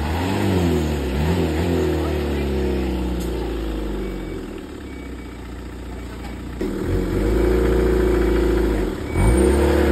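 Off-road 4x4's engine revving under load as the vehicle climbs out of a muddy gully: the pitch surges up and down in the first few seconds and eases off around the middle. It is then held high and loud for a few seconds near the end, with a brief dip before picking up again.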